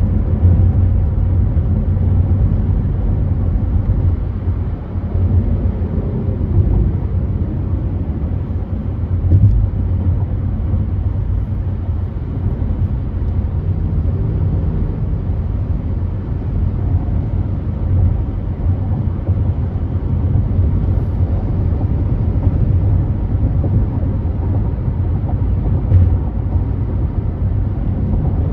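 Car driving on a freeway: steady road and engine rumble with tyre noise, without a break.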